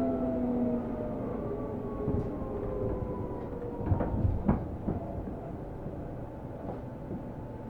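Seibu New 2000 series electric train slowing down, heard from inside the car: the traction motor whine falls steadily in pitch over rumbling running noise. There are a couple of sharp knocks about four seconds in.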